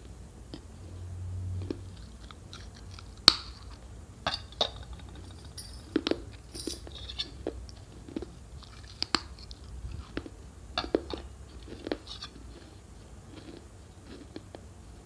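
A person biting and chewing a thin, crisp flatbread, with irregular crunches. The crunches come thickest from about three to twelve seconds in, the loudest about three seconds in, and thin out near the end.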